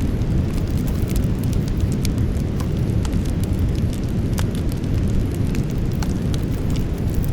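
Wood campfire burning: sharp crackles and pops scattered irregularly over a steady low rumble.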